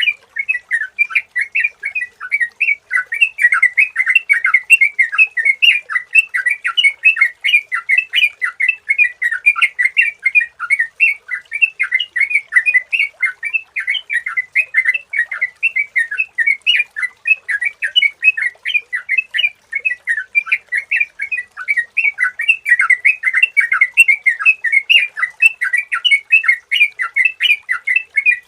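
Yellow-vented bulbul (trucukan) singing: a fast, unbroken stream of short, bright chirping notes, several a second, with no pauses.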